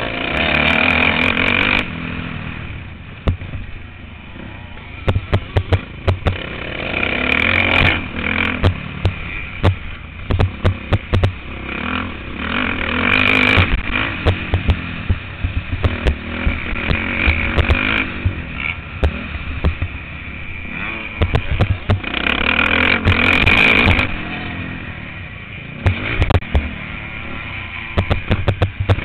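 Motocross bike engine heard from on board, revving up hard and falling off again about five times as the rider accelerates and shuts off around the track, with frequent knocks and clatter from the bike over the bumps.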